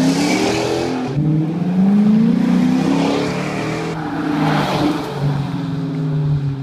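Dodge Charger R/T's 5.7-litre Hemi V8 accelerating hard through the gears, exhaust through Flowmaster 40 mufflers with the resonators deleted. The pitch climbs, falls back at an upshift about a second in, climbs again and shifts once more about four seconds in.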